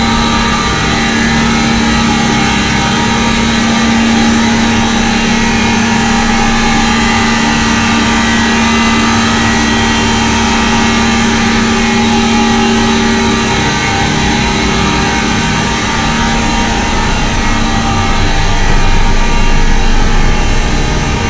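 Diesel machinery in a ship's engine room running steadily: a loud, continuous drone with a constant hum.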